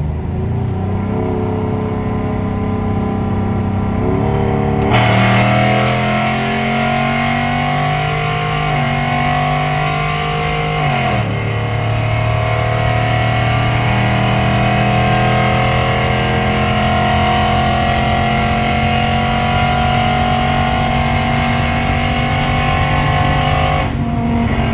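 Straight-piped Ram 1500 Hemi V8 with long-tube headers under hard acceleration. The exhaust note gets louder and harsher about five seconds in and rises in pitch. It drops sharply at a gear shift about eleven seconds in, then climbs slowly again through a long pull.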